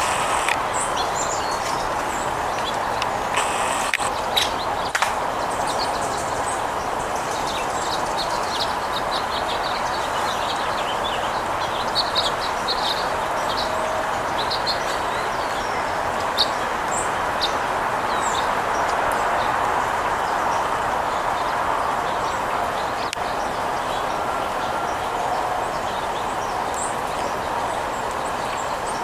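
Small birds chirping in short, high calls, scattered and repeated, over a steady background hiss.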